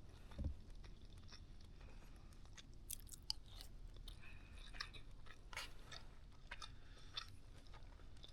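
A person chewing food close to the microphone, eating baked chicken and rice, with scattered small mouth clicks and smacks and a soft thump about half a second in.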